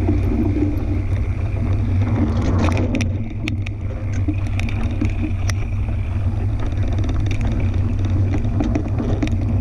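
Riding noise from a fat-tyre tandem mountain bike: wind buffeting the microphone in a steady low rumble, over tyre noise, with scattered sharp clicks and rattles from the bike.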